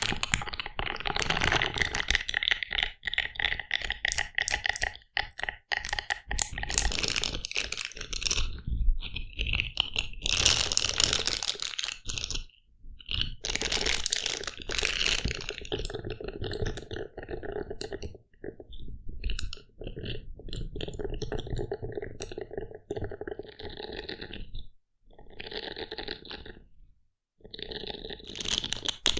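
Close-miked crackling, crunching and scratching handling sounds, coming in stretches of a few seconds with short pauses between.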